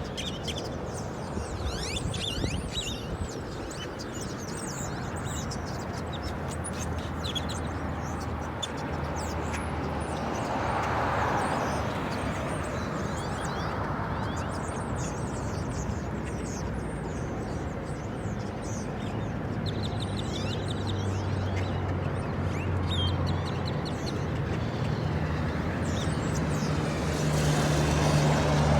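A large flock of birds calling, many overlapping calls at once, over the steady rumble of a car. About two-thirds of the way through, a steady low engine hum builds.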